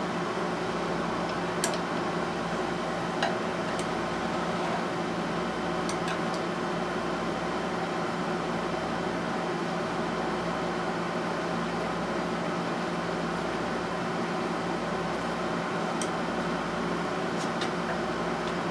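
A steady mechanical hum from a running motor, unchanging throughout, with a few faint clicks over it.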